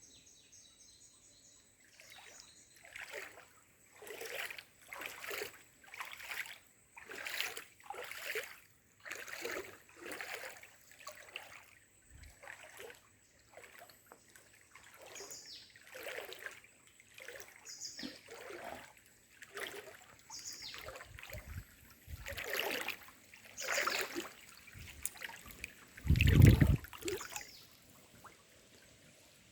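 Water splashing in repeated short bursts about once a second, with one much louder, deeper splash or thump near the end.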